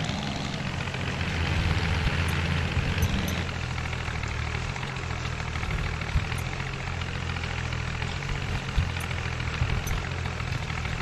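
Mahindra tractor's diesel engine running steadily, with a low, even drone.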